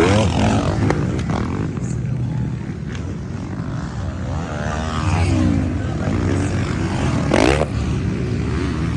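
Motocross bikes racing, their engines revving up and dropping back over a steady drone, with a sharp rising rev about seven and a half seconds in as the loudest moment.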